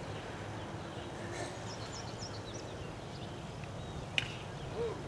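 Outdoor background noise with a steady low rumble, and a small bird giving a quick run of short, high, falling chirps about a second and a half in. A single sharp click comes near the end.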